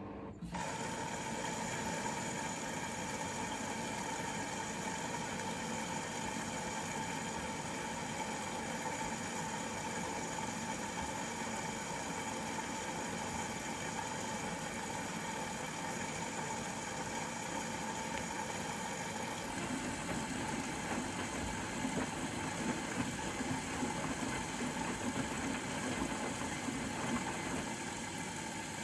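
Bosch Serie 4 WAK20260TR front-loading washing machine running mid-cycle: its motor comes on abruptly just after the start and then runs with a steady hum and whine. From about twenty seconds in, a lower rumble with irregular knocks joins, as the drum turns the wash.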